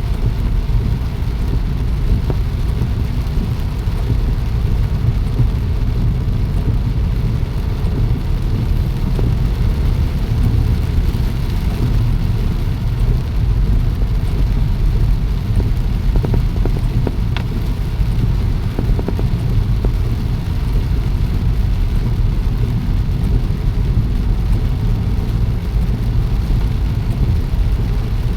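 Rain falling steadily, an unbroken dense rush weighted toward the low end.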